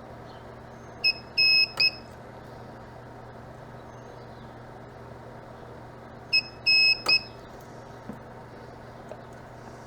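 Mini spot welder making two welds about five seconds apart. Each weld is a short beep, a longer beep and another short beep, ending in a sharp snap as the pulse fires through the nickel strip on the 18650 cells. A steady low hum sits under it.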